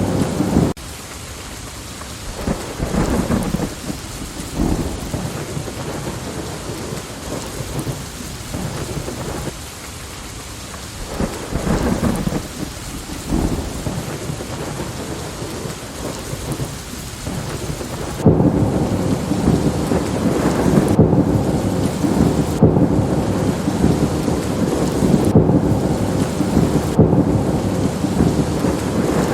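Thunderstorm: steady rain with thunder crackling and rumbling. The storm drops suddenly to quieter rain with intermittent rumbles about a second in, then jumps back to heavier rain and thunder about two-thirds of the way through.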